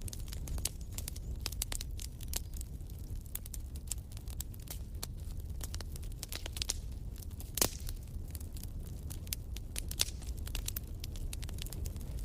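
Wood fire in a fireplace crackling, with many small irregular snaps over a low steady rumble of flames. One louder pop comes about seven and a half seconds in and another near ten seconds.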